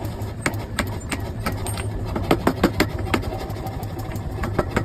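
Hammer blows on a punch driving the handle eye through a hot axe blank, roughly three uneven strikes a second. A steady low machine hum runs underneath.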